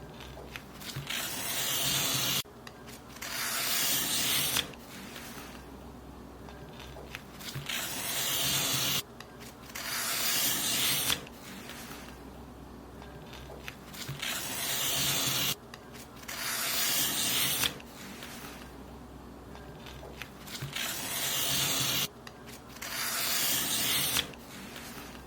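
Paper being cut in long, repeated strokes. Each stroke is a swelling hiss of about two seconds that stops abruptly, and the strokes come in pairs with short pauses between them.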